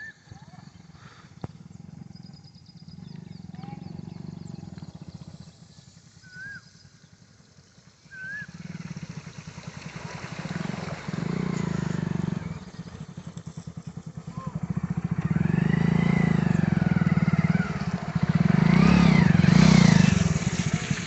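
A motorcycle engine running and drawing closer, with a steady, rapid pulsing that grows much louder over the second half.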